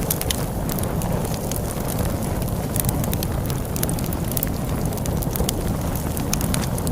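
Log fire crackling with frequent sharp pops, over a steady low rumble of storm wind.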